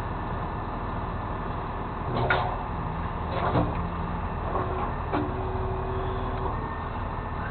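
A truck engine idling with a steady hum, with three metal clanks or scrapes from handling towing gear, about two, three and a half and five seconds in, the last one ringing briefly.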